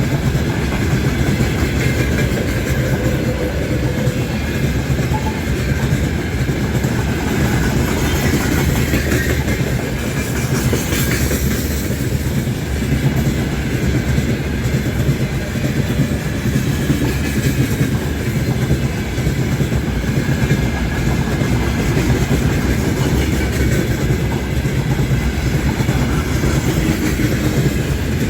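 Freight train rolling past steadily, its wheels running over the rails.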